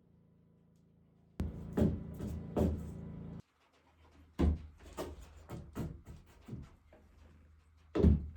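Irregular knocks and thuds of wood on wood, about a dozen, the strongest pair near the end. A low steady hum joins them briefly and then cuts off suddenly.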